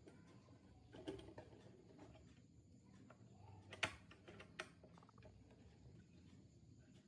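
Faint, sparse clicks and taps of small hard parts, with the sharpest click about four seconds in.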